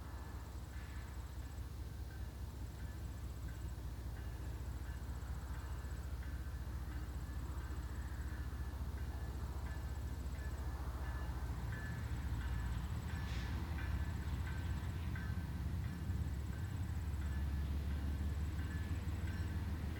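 Diesel locomotives of an approaching freight train, a low engine rumble growing steadily louder.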